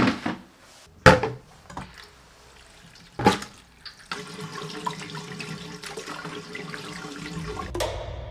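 A few sharp knocks and clatters, then a kitchen tap turned on about four seconds in, water running steadily into the sink.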